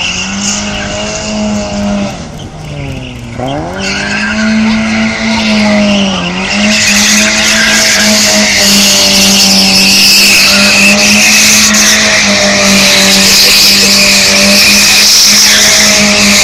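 1974 Peugeot 504 race car doing circle work, its engine held at high revs with tyres squealing as it slides round. The revs dip and pick up again twice in the first half, and from about six seconds in the tyre squeal grows much louder and keeps on.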